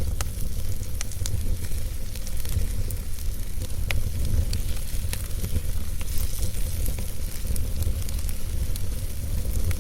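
Wood fire burning in a fireplace: a steady low rumble of flames under a faint hiss, with scattered crackles and pops from the logs, a sharper pop about four seconds in.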